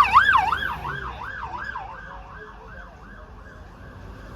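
Emergency vehicle siren in a fast up-and-down warble, about three swings a second, loud at first and fading away over the first couple of seconds as it passes, leaving faint road traffic.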